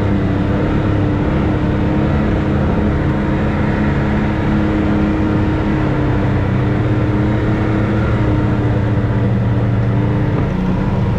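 Side-by-side UTV engine running steadily under light throttle, its pitch drifting slightly up and down.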